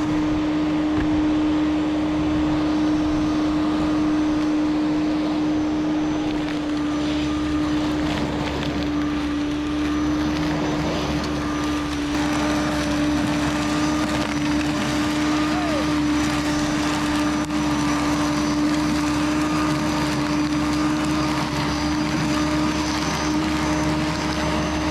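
Corded Flymo electric lawn mower running steadily while cutting overgrown grass, a constant motor hum with a rushing noise over it; the pitch sags slightly for a few seconds about eight seconds in.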